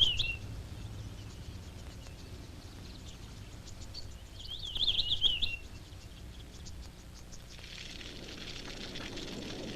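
A songbird sings a short, rapid, high warbling phrase twice: once at the start and again about five seconds in. A faint steady outdoor background of insects runs underneath, and a soft hiss comes in near the end.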